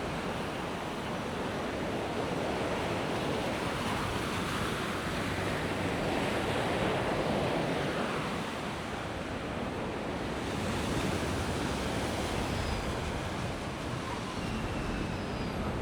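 Sea waves washing onto the shore, the surf swelling and easing in slow surges, with wind buffeting the microphone.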